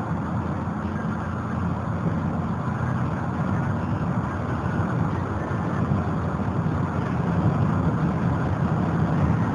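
Pickup truck driving at highway speed, its engine and road noise a steady low rumble heard from inside the cab, growing a little louder near the end. The truck is running well at close to 60 mph now that a leak that had held it to 20 mph has been fixed.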